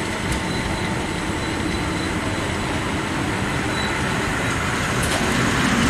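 The ETR 252 'Arlecchino' electric multiple unit rolling past: a steady rumble of wheels on rails that grows a little louder near the end.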